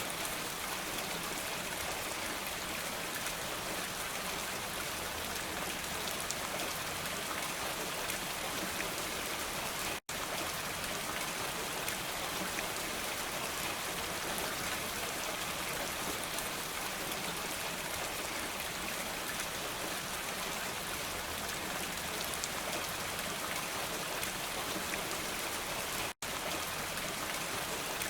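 Steady rain falling in an even hiss, broken twice by a momentary silent gap, about ten seconds in and again near the end.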